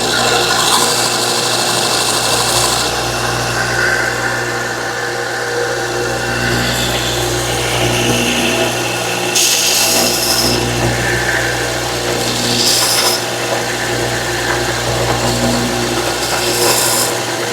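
Stationary belt sander running steadily, with a wooden piece pressed against the moving belt in several short spells, the longest near the start. Each spell adds a rasping hiss over the motor hum as the sander grinds a 45-degree chamfered edge down to a pencil line.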